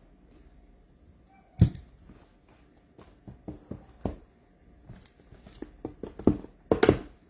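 Things being handled and set down on a tabletop: one sharp knock, then a run of lighter taps and clunks, louder again near the end.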